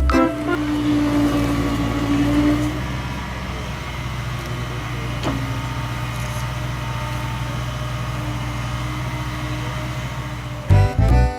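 A vehicle engine running steadily, with a held higher tone over the first couple of seconds that then fades.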